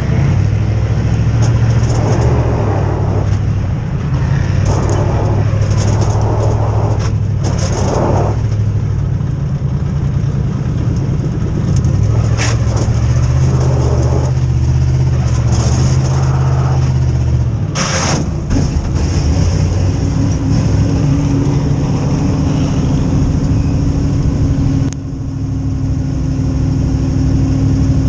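Dirt modified race car engines running loud and steady, their pitch stepping up and down. A higher, steady tone slowly rises through the last third.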